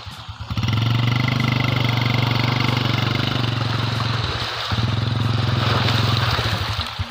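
Motorcycle engine, first ticking over in separate firing beats, then held at higher revs from about half a second in, easing off briefly a little past four seconds, and dropping back to an idle near the end.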